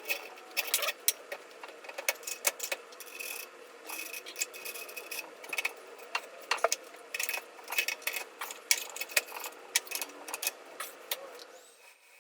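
Irregular metallic clicks and clinks of a wrench and steel parts being worked on the buffer's shaft, a few sharp knocks ringing briefly.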